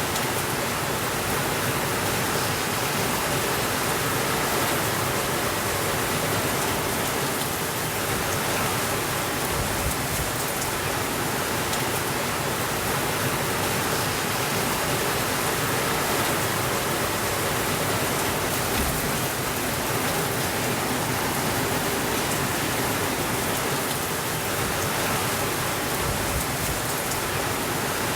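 Steady rainfall: an even, unbroken hiss of rain with no changes in level.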